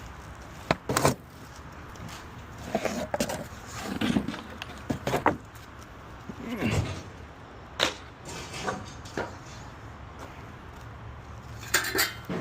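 Construction debris and junk being handled and tossed during a cleanup: a string of irregular knocks and clatters, the sharpest about a second in and near the end, over a steady low hum.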